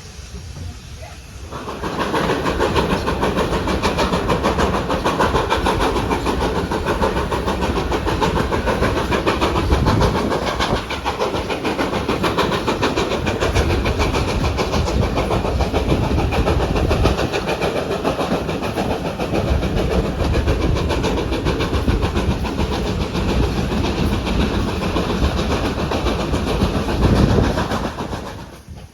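Train on a heritage railway line running close by, its wheels clattering rapidly over the rails. The sound comes in suddenly about two seconds in, holds steady and loud, then drops away sharply near the end.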